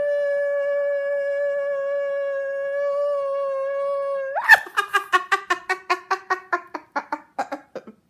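A voice holds one long, steady note for about four seconds, then jumps in pitch and breaks into a fast run of short, clipped yelps that slow and fade toward the end.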